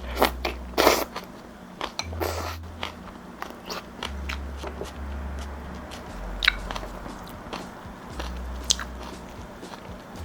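Close-miked eating of instant ramen noodles: slurping and chewing, with many short wet mouth clicks and a couple of longer slurps in the first few seconds.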